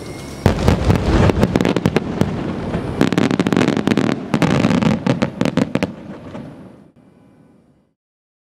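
Aerial fireworks finale: a dense, rapid barrage of bangs and crackling shells starting about half a second in and thickening again about three seconds in, then dying away after about six seconds.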